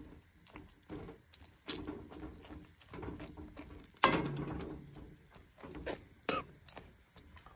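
Close-up eating sounds: chewing and crunching of fried noodles and dried buffalo meat, with scattered clicks. A sudden louder sound comes about four seconds in, and another just past six seconds.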